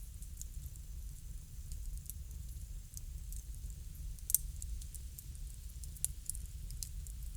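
Bonfire crackling: irregular sharp snaps and pops over a steady low rumble, with one louder pop about four seconds in.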